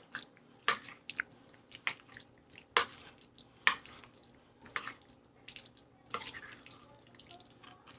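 Potato salad dressed with mayonnaise and mustard being stirred: short, wet, sticky clicks about once a second, with a softer stretch about three quarters of the way in. This is the "mayo sound", which the cook takes as the sign that the right amount of mayo is in it.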